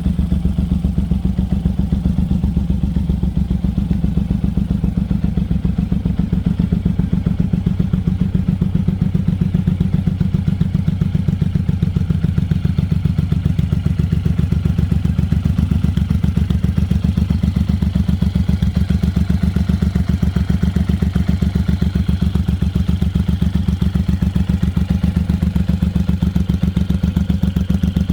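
Suzuki VZR 1800 (M109R) Boss's big V-twin engine idling steadily through an aftermarket Miller exhaust, with an even, low pulsing beat.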